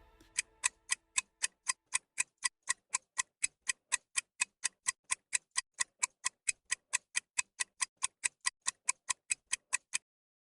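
Steady, evenly spaced ticking, about four ticks a second, like a clock or timer, which stops suddenly near the end.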